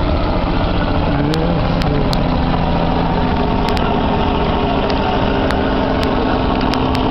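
Helicopter flying nearby, its rotor and engine making a steady, loud, fluttering drone.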